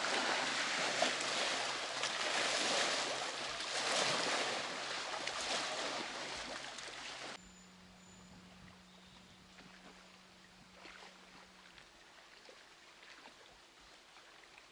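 River waves from passing boats' wakes washing and splashing against the bank, a dense rushing of water that cuts off abruptly about seven seconds in. After that, only a faint low hum and a few small clicks.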